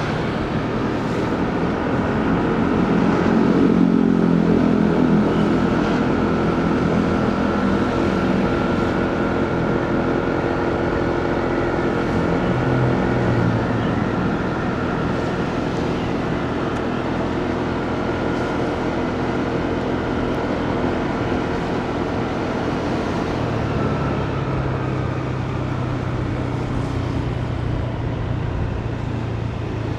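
Motorcycle engine running while riding in city traffic, with road and wind noise. The engine note rises and grows louder a few seconds in, then settles to a steadier drone.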